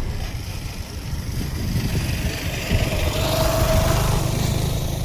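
A car on the move: steady low engine and road rumble. A faint whine and a swell of noise come in about three to four seconds in.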